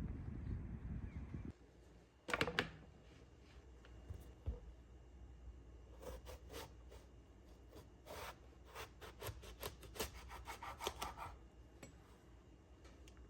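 A run of short scraping strokes, one after another. The loudest pair comes early, and a quicker run of strokes follows in the second half. A low steady rumble stops abruptly before the strokes begin.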